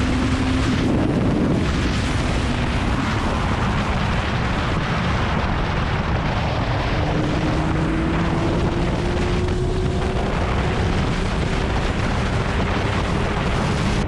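Kawasaki Ninja ZX-9R's inline-four engine running at speed, almost buried under heavy wind rush on an action camera's microphone. In the second half the engine note climbs slowly as the bike accelerates.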